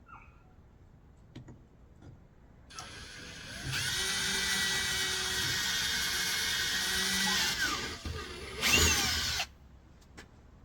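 Electric drill running for about six seconds with a steady whine, dipping and slowing near the end, then a short louder burst before it stops suddenly. It is drilling out cargo-box mounting holes that were marked too far in.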